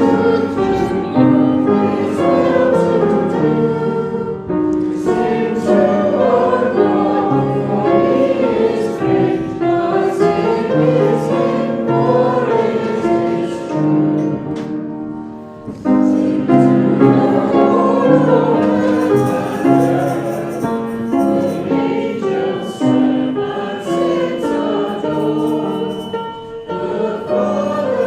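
Congregation singing a hymn together, with a short break between lines about halfway through.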